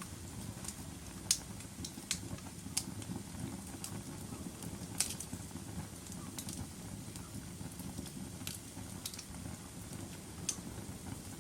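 Wood fire in a fireplace crackling: sharp, irregular pops and snaps over a low, steady rumble of burning, with the loudest snaps about a second in and about five seconds in.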